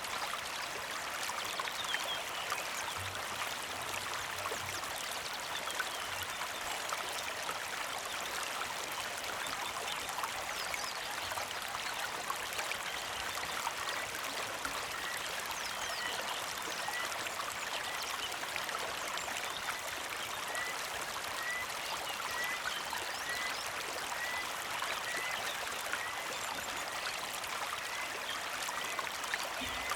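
A small creek flowing and trickling over rocks in a steady, even rush. Through the second half a bird repeats a short high chirp about every two-thirds of a second.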